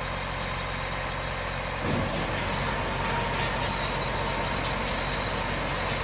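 Farm equipment engine running steadily. About two seconds in it gets a little louder, and a steady whine and light clatter join it.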